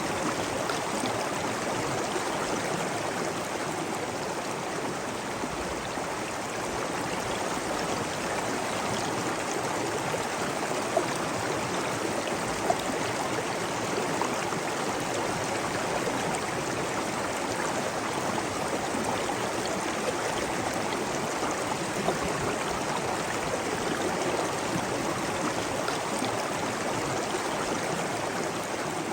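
Water rushing and splashing steadily over stone, a constant even sound with no rhythm, broken only by two brief sharp sounds near the middle.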